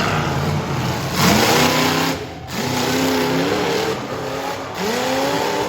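Mega truck engine revving hard in three bursts, its pitch rising with each stab of throttle and dropping briefly when the throttle is lifted.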